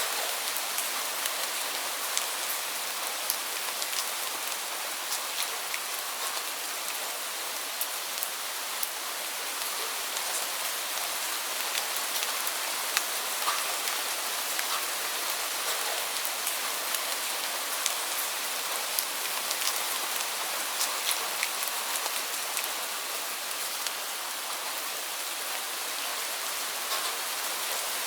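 Steady heavy rain: a dense hiss of rainfall with close, sharp drop impacts scattered through it.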